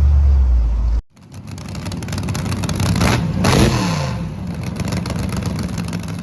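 Car engines. A loud low rumble cuts off about a second in. Then a car drives past, its engine note dropping in pitch as it goes by, and it keeps running steadily.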